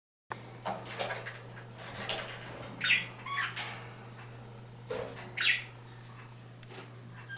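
Pet birds chirping, two short chirps about three and five and a half seconds in, among scattered scratchy clicks, over a steady low hum.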